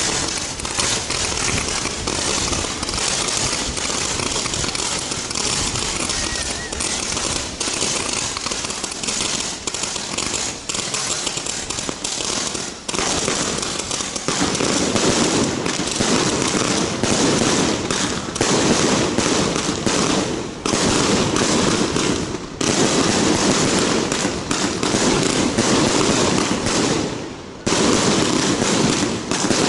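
Japanese set-piece ground fireworks (shikake) burning: a dense, continuous crackling and hissing of sparks, growing louder and fuller about halfway through, with a few brief dips.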